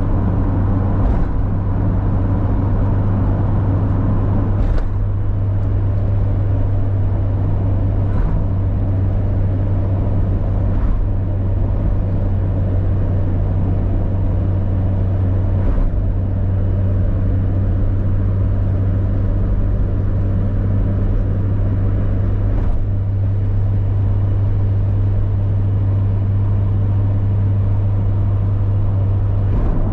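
Mazda MX-5 Miata (NA8C, 1.8-litre four-cylinder) running at a steady cruise, its engine a constant low drone over tyre and road noise, heard from inside the car. A few faint thumps come through at irregular intervals.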